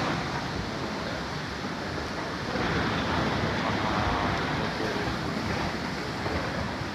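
Steady rushing noise of the Tons River in flood, its swollen water running high and fast.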